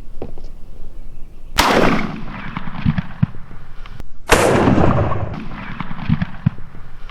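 Two shotgun blasts about two and a half seconds apart, each a sudden loud crack that echoes away over about a second.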